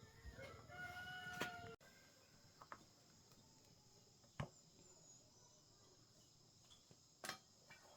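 Near silence: faint room tone. A faint held tone sounds in the first two seconds, and a few isolated clicks come later.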